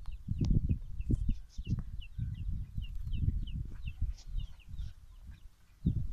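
A small bird chirping over and over in short, high, falling notes, a few each second, over irregular low rumbling that is the loudest part.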